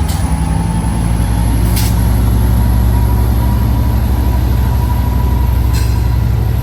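EMD F59PHI diesel-electric locomotive, with a 12-cylinder 710 diesel engine, running steadily with an even low hum.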